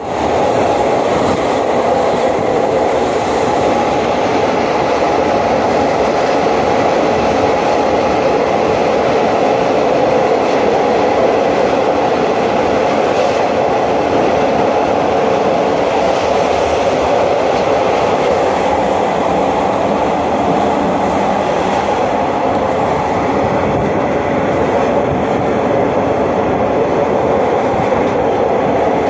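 Steady running noise of a moving passenger train heard from inside the carriage: wheels on the rails and the rumble of the car, loud and unbroken.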